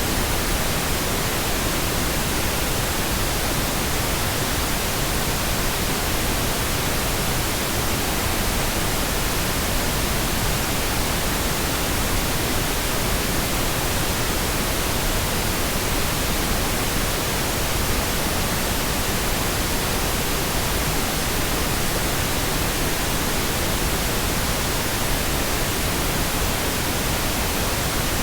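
Pink noise: a steady, even hiss across the whole range of pitch, unchanging throughout.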